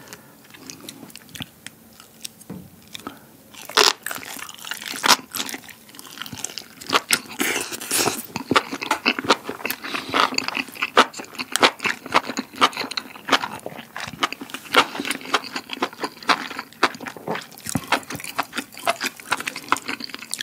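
Close-miked chewing of a rice-paper wrap of enoki mushrooms braised in spicy buldak sauce. There is one sharp bite about four seconds in, then a dense run of crisp, clicking chews.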